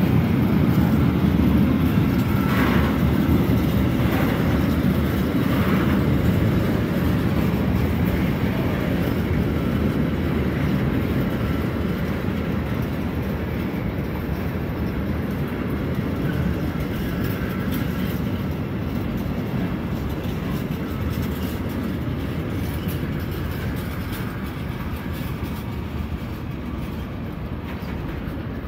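Freight train of tank wagons rolling past close by: a steady rumble of wheels on rail that gradually gets quieter.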